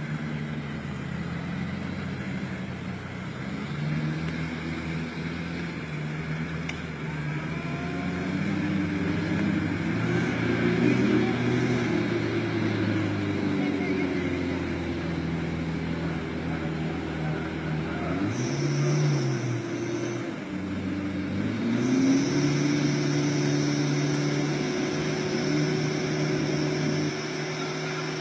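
Engine of a 4WD pickup truck running under load, its revs rising and falling several times, with a high thin whine over it in the second half.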